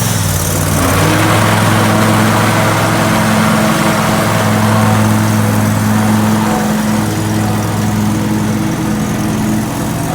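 Spartan zero-turn lawn mower's engine running steadily under mowing load, its blades cutting grass; the engine note steps up slightly about a second in.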